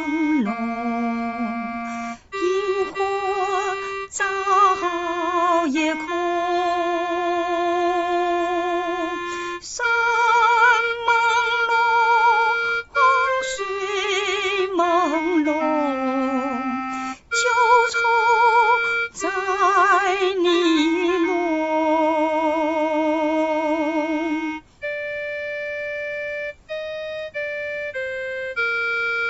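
Slow song melody sung in phrases with vibrato on long held notes. Near the end, a keyboard plays a short line of plain single notes.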